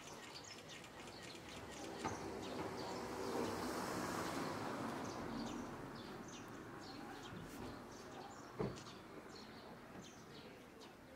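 Small birds chirping, with short high calls scattered throughout, over a rush of open-air noise that swells and fades in the first half. A single sharp knock comes about three quarters of the way through.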